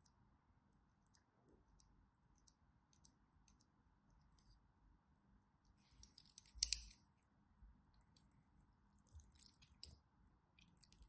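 Faint small clicks and sticky crackles of slime being handled, with one louder crackling burst a little past halfway and more crackles near the end.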